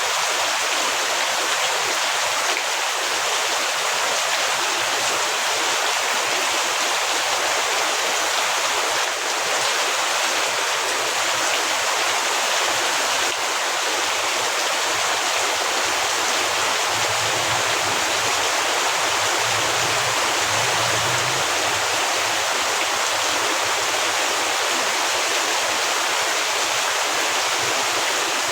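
Heavy rain pouring in a steady, dense hiss.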